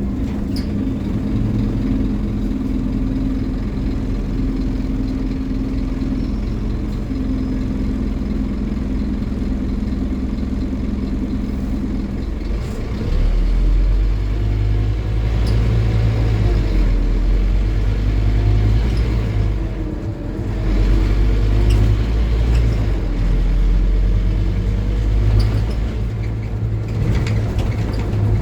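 Scania N270UD OmniCity bus's five-cylinder diesel engine running steadily, then pulling harder and louder about halfway through, with a brief drop near two-thirds of the way in, like a gear change, before it builds again.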